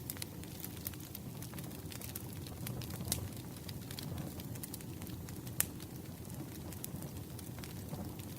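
Campfire burning with a steady low rumble and irregular sharp crackles and pops of the wood, the loudest about five and a half seconds in.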